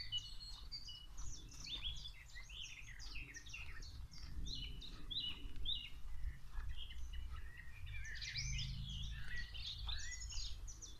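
Several songbirds singing and chirping in quick, varied phrases, with a low rumble underneath.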